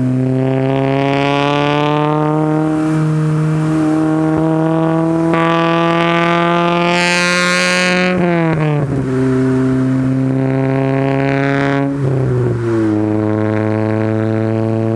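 Honda Integra GSR's 1.8-litre four-cylinder VTEC engine, fitted with Integra Type R camshafts and exhaust, accelerating hard through the gears. Revs climb steadily for about eight seconds and drop sharply at an upshift. They climb again and drop at a second upshift about twelve seconds in, then climb once more.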